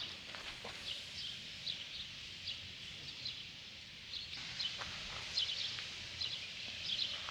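Small birds chirping, with short high calls repeating every half second or so, and a few faint knocks.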